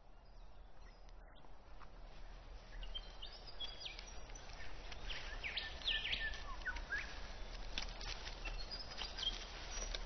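Birds chirping over a faint steady outdoor ambience: short, quick calls that start about three seconds in and are busiest in the middle.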